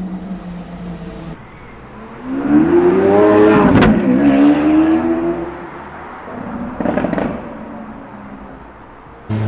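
A supercar's engine accelerating hard, its pitch rising and then dropping at an upshift about four seconds in, before fading. A short, separate burst of revving comes near seven seconds.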